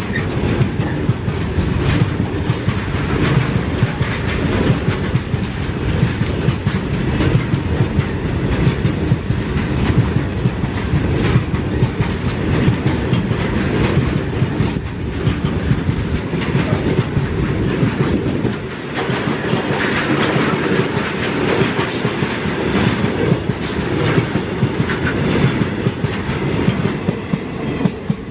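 Express passenger train passing close by, its coaches' wheels clattering steadily over the rail joints.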